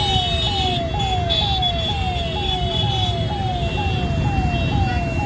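Electronic level-crossing warning alarm sounding steadily, a tone that falls in pitch and repeats about twice a second, over the rumble of waiting road traffic.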